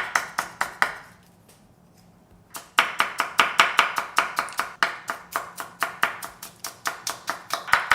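Knife chopping red bell pepper on a cutting board: rapid, even strokes, several a second, that pause about a second in and start again after a second and a half.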